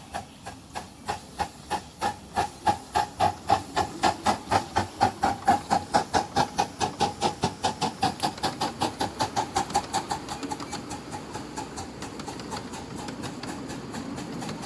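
Live-steam miniature locomotive's exhaust chuffing, the beats coming faster as it gathers speed. After about ten seconds they blur into a steady hiss.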